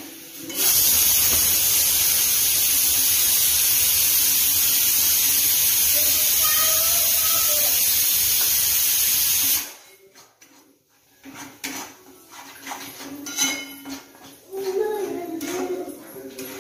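Masala paste sizzling in oil in the pan: a loud, steady hiss that cuts off suddenly after about nine seconds. It is followed by quieter scraping and knocking as the roasted masala is scooped out of the pan by hand.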